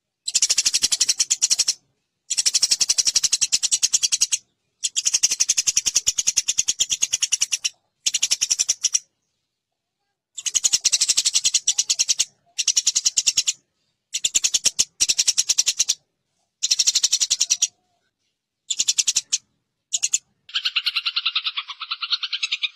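Eurasian tree sparrows (burung gereja) fighting: bursts of rapid, harsh, high chattering that break off abruptly between bursts. Near the end a lower, buzzier run of continuous chatter begins.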